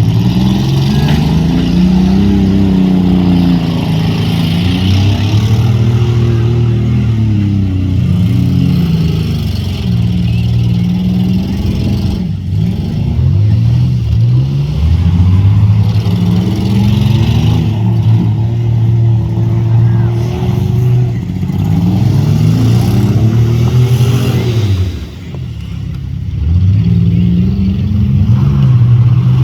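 Demolition derby compact cars' engines revving up and down, several engine pitches rising and falling over one another, with a brief drop in loudness near the end.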